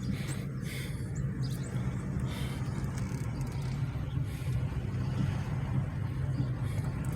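A car being driven, heard from inside the cabin: a steady low drone of engine and road noise.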